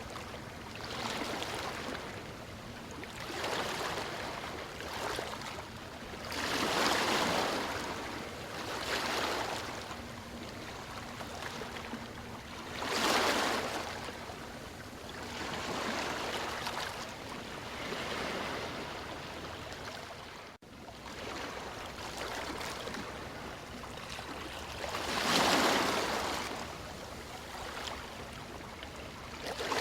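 Ocean waves breaking on a shore, the surf rising and falling every few seconds, with three bigger breakers standing out. There is a momentary break in the sound about two-thirds of the way through.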